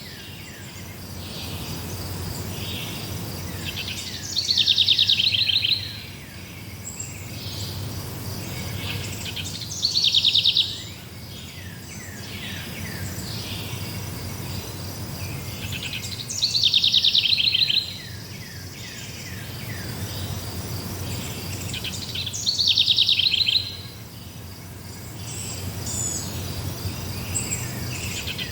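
A songbird singing the same loud phrase, a fast run of quick notes about a second and a half long, four times at roughly six-second intervals. Behind it, insects chirr steadily and there is a low steady rumble.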